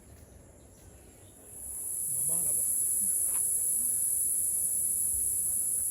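Steady high-pitched buzzing of rainforest insects, swelling much louder about a second and a half in and holding there.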